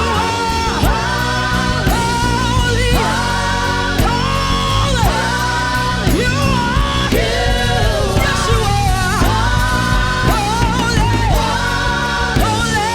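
Worship music with a band and singing. Held, wavering sung phrases follow one another over a steady bass and instrumental backing.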